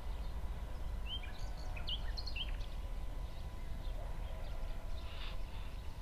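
A few birds chirping in short bursts, mostly in the first half, over a low, steady outdoor background rumble.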